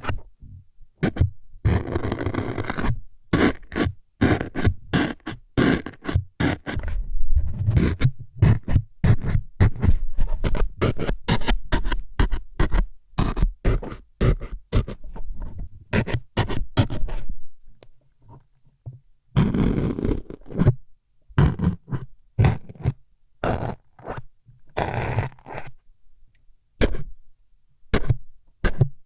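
Close-miked ASMR needle-stabbing sounds: rapid, irregular jabs and scrapes, with longer scraping runs about two seconds in, near twenty seconds and again around twenty-five seconds.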